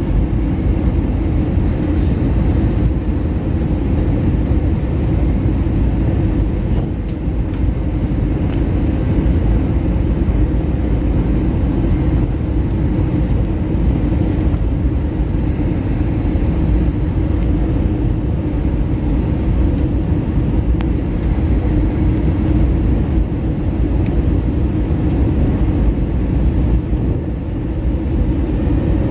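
Steady, loud rumble of an Airbus A321neo's engines and airflow in flight, heard from inside the cabin, unchanging throughout.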